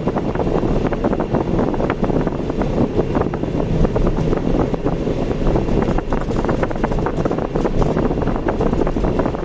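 A car driving on a city road, heard as a steady rumble of engine and tyre noise with wind noise on the microphone and many small rattles and clicks throughout.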